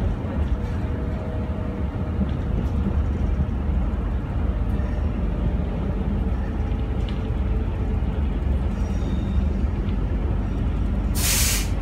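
SNCF TER regional train running slowly into a station, heard from inside the carriage: a steady low rumble of wheels and running gear with a faint whine. A brief loud hiss of air sounds near the end.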